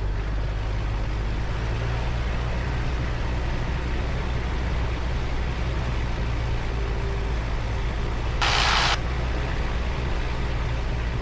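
Cessna 172's piston engine running steadily at 1800 rpm for the pre-takeoff run-up and magneto check. About eight and a half seconds in, a half-second burst of hiss cuts in over it.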